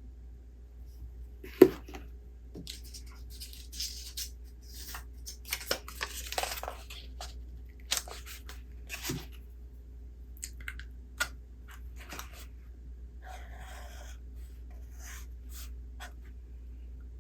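Paper rustling and light taps and clicks as a book's pages are handled and turned, with a sharp tap about one and a half seconds in, over a faint steady low hum.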